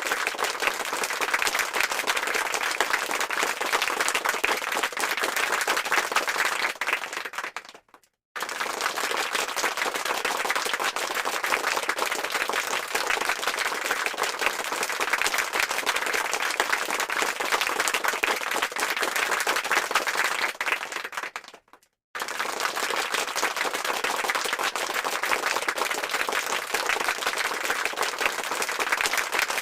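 Crowd applause: dense clapping from many hands. It fades and stops briefly twice, about eight seconds in and again near twenty-two seconds, restarting each time.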